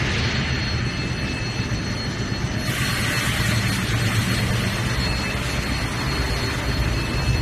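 Fibre cement board production line machinery running steadily, with a low hum and a thin high whine. About three seconds in, a loud steady hiss joins in.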